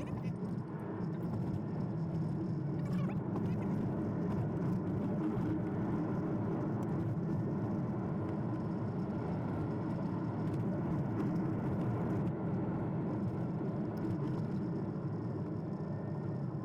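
Steady rumble of a Toyota Prius driving along a forest logging road, heard from inside the cabin: tyre and road noise with faint scattered ticks.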